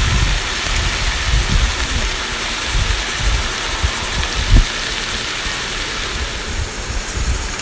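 Brinjal pieces frying in hot sesame oil in a pan: a steady sizzling hiss, with low bumps throughout and one sharper knock about four and a half seconds in.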